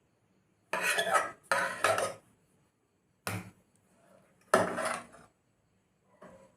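Dishes and cutlery clattering: a plate and spoon knocked and scraped in about five short bursts, the loudest a little past the middle.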